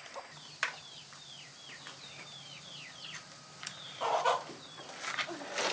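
Chickens calling: a run of about eight short, falling peeps, then a louder call a little after four seconds in.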